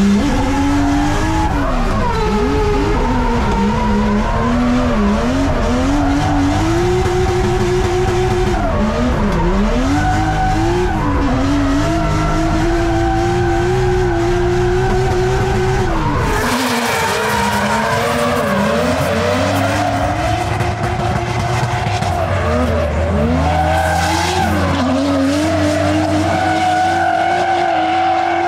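Turbocharged Toyota Chaser drift car at full drift, its engine revving up and down over and over, with tyre squeal. About halfway through the sound changes abruptly and the deep rumble drops away.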